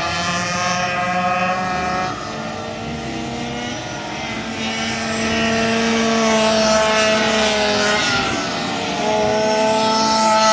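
Several racing minibike engines running together on a circuit. Their overlapping notes rise and fall in pitch as the bikes accelerate and brake.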